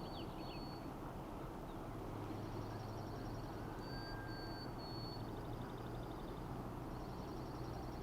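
Open-country ambience: a steady low background hum with faint songbirds calling over it, short high whistled notes and rapid high trills, heard a few times.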